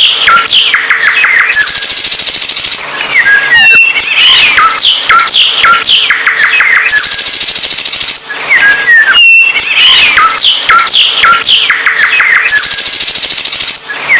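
Loud, busy songbird song: quick whistles, sweeping notes, chips and trills. The same run of phrases comes back about every five and a half seconds, like a looped recording.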